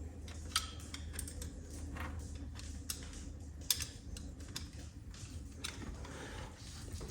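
Scattered small metallic clicks and taps of a hose clamp being worked onto a coolant hose, about one a second, over a low steady hum.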